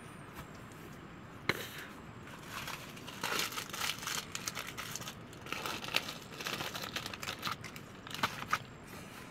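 Crinkling and rustling in irregular bursts, starting about three seconds in, with a few sharp clicks.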